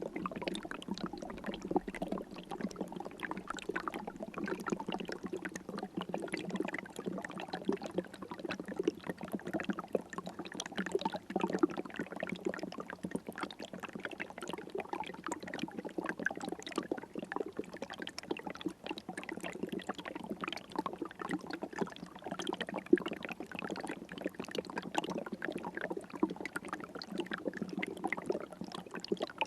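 River water flowing in a steady, unbroken babble of many small splashes and gurgles.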